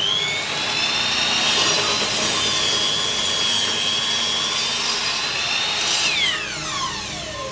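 Hitachi 255 mm aluminium-cutting miter saw running up to a high whine, its blade cutting through wood with the pitch sagging a little under load. About six seconds in it is switched off, and the whine falls steadily as the blade spins down.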